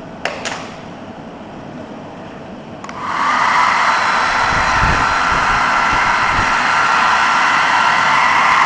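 Two sharp clicks, then about three seconds in an 850 W travel hair dryer switches on with a click and blows steadily: a loud rush of air with a steady high whine from its fan motor.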